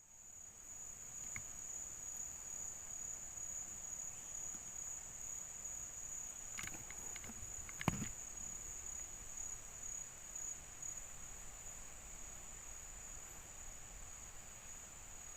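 Faint, steady high-pitched insect drone that does not change. A single sharp click about eight seconds in.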